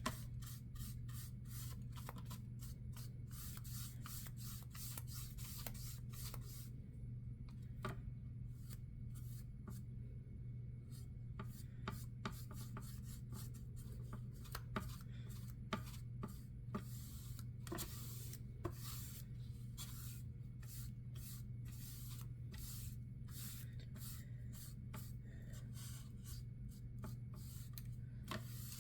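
Quick, repeated scraping or rubbing strokes in runs, with a few sharper clicks, over a steady low hum.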